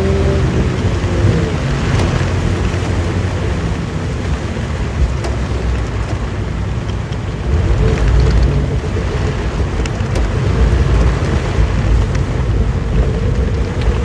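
Suzuki Jimny SJ30's three-cylinder two-stroke engine running on the move in heavy rain, a low rumble under the hiss of rain and wet road. A whine at the start falls away within the first second or so, and the engine grows louder again about eight seconds in.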